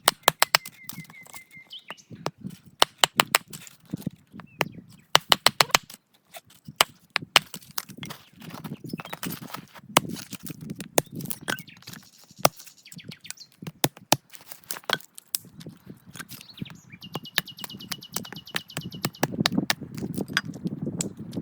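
Wood fire crackling, with many sharp pops and snaps, and a low rush that grows stronger partway through. Small birds chirp in short trills twice, near the start and near the end.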